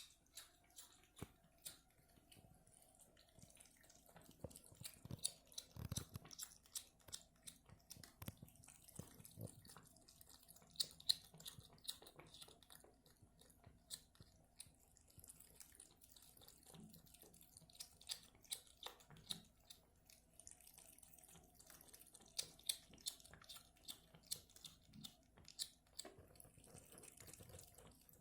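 A cat lapping water from a bucket, its tongue and lips making quick, irregular clicking and smacking sounds.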